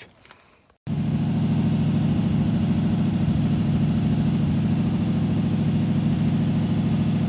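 V8 car engine idling steadily, coming in abruptly about a second in.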